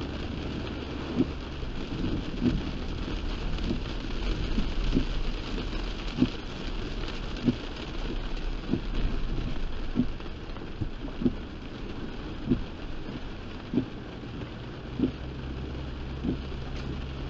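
Heavy rain drumming on a moving car, over a steady low road and engine rumble, with a soft thud about every second and a quarter: the regular beat of the windshield wipers.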